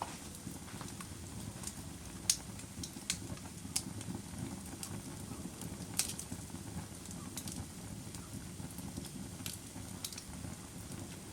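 Fire crackling: irregular sharp pops and snaps, one every second or so, over a steady low rush.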